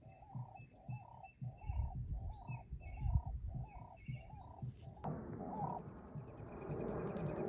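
A bird calling over and over at a steady pace, about eight short calls in five seconds, then a rustling noise that rises near the end.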